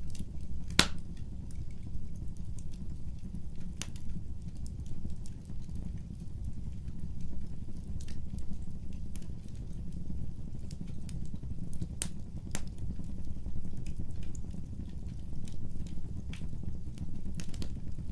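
Wood fire burning, with a low steady rumble of the flames and scattered sharp crackles and pops from the burning logs, the loudest about a second in.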